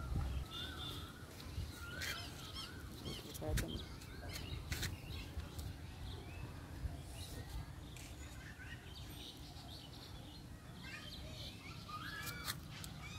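Small birds chirping and whistling in short bursts, clustered near the start and again near the end, over a faint steady low outdoor hum.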